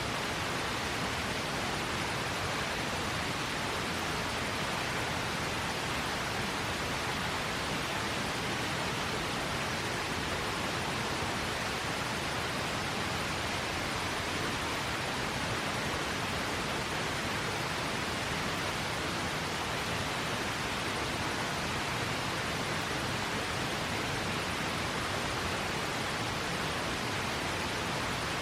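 River water rushing steadily, an even hiss that never changes.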